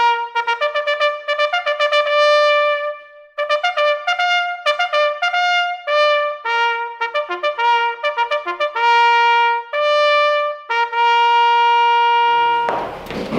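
Background music: a solo trumpet playing a melody of quick short notes and long held notes. Near the end it gives way to garage noise.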